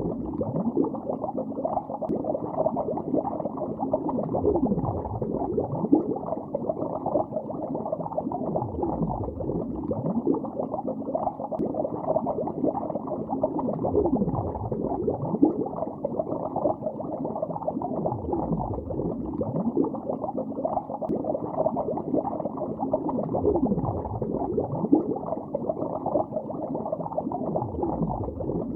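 Bubbles streaming and gurgling underwater, a dense steady bubbling with many short sliding bursts of pitch. It sounds dull, with no hiss or splash above the low and middle range.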